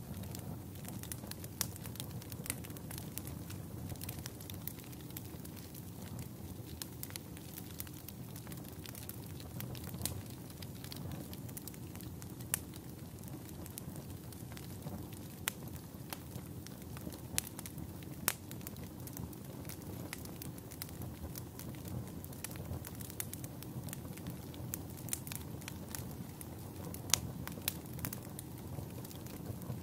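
Campfire burning: a steady low rumble of flames with irregular sharp pops and crackles of burning wood, a few of them louder.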